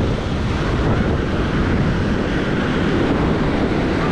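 Wind buffeting the microphone over a steady wash of ocean surf on the beach.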